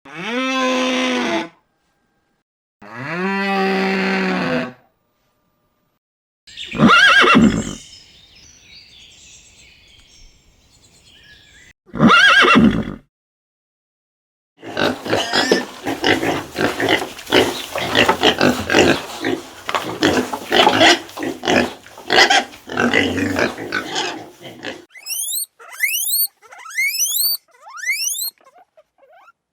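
A string of different animal calls one after another: two drawn-out calls, two short loud cries, about ten seconds of busy overlapping calls, then a run of quick, high, rising chirps near the end.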